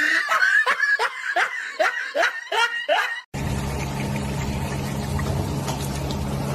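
A person laughing in a run of about eight short, falling 'ha' bursts, cut off abruptly about three seconds in. After that comes a steady low hum with hiss.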